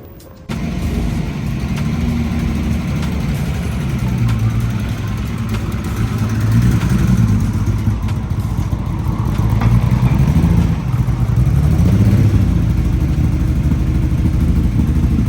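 A car engine running and being revved as it drives, its pitch rising and falling several times; it starts about half a second in.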